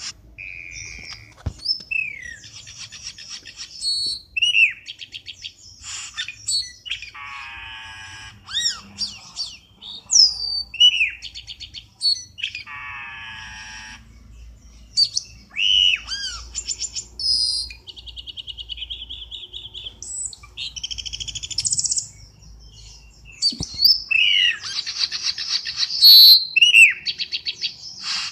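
Cucak keling lure call: a dense, varied string of short chirps, quick rising and falling whistles, clicky trills and harsh rasping calls.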